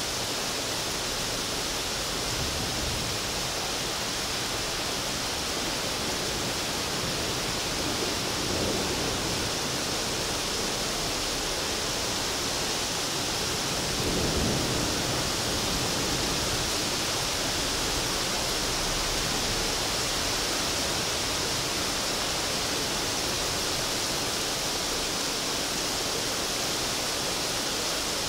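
Heavy downpour: a steady hiss of rain, swelling briefly twice, about eight seconds in and again about halfway.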